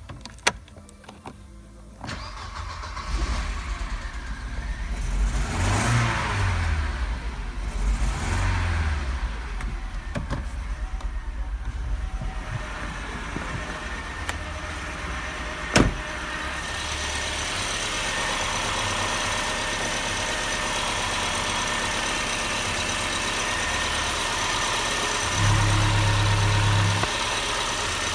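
Mercedes-Benz M111.920 1.8-litre four-cylinder petrol engine starting about two seconds in. It is revved up and down twice, then settles to a steady idle. There is a sharp click about halfway through, and a short rise in level near the end.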